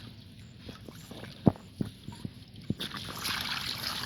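Scattered light taps and knocks of toys being handled, then water sloshing and splashing that builds up over the last second.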